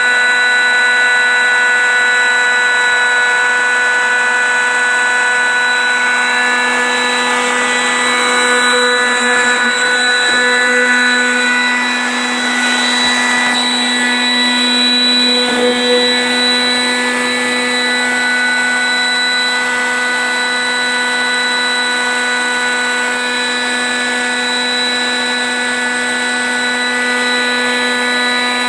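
Small high-speed electric air pump running with a steady whine as it deflates an inflatable truck bed air mattress.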